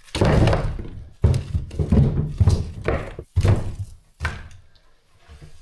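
A run of heavy, irregular thuds and knocks as gear is handled and set down in a small room, about seven in the first four seconds, then fainter knocks.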